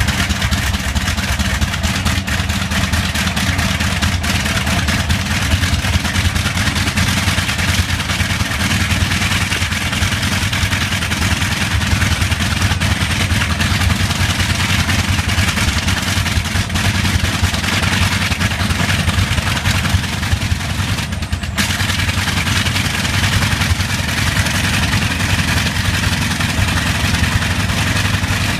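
Bristol Hercules 14-cylinder sleeve-valve radial aero engine running steadily with a slight misfire, with one brief dip in the sound about three quarters of the way through.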